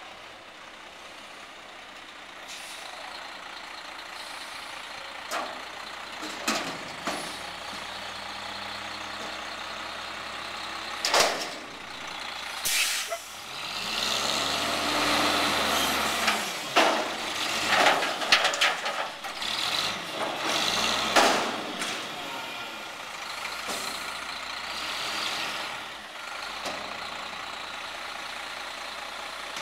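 Garbage truck's diesel engine running and growing louder, with several short, loud air-brake hisses and bangs. Through the middle stretch the engine speeds up and slows again a few times.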